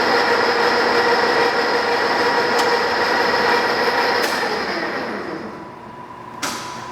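Mazak engine lathe's geared headstock running at low spindle speed with a steady gear whine, then winding down about four seconds in. A single sharp clunk comes near the end.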